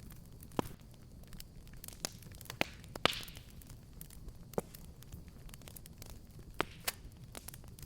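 Wood fire crackling, with a low steady rumble under scattered sharp pops; the loudest pop comes about three seconds in and is followed by a short hiss.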